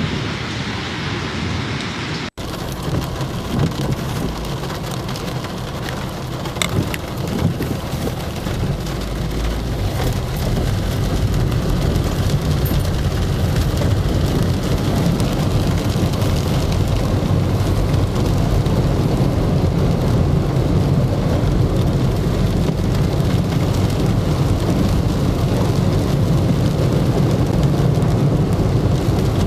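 Heavy rain pouring down during a storm, a dense steady hiss over a low rumble. It breaks off for an instant about two seconds in, then grows louder and steadier after about ten seconds.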